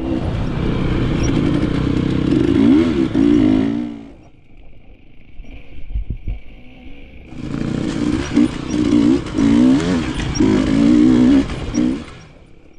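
KTM enduro motorcycle engine revving hard in surges, its pitch rising and falling. About four seconds in, the throttle closes and the engine drops quiet for about three seconds, then it revs hard again.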